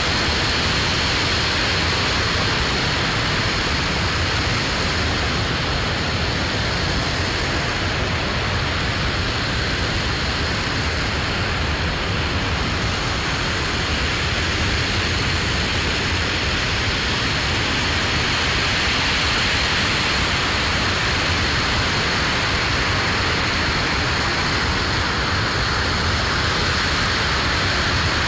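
Aerojet Rocketdyne RS-25 liquid-hydrogen and liquid-oxygen rocket engine firing on a test stand: a loud, steady noise that holds even throughout.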